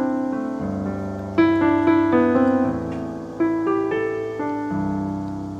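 Background music: a slow piano introduction, chords and single notes struck every half second or so over a low bass note that changes about every two seconds, each note ringing and fading.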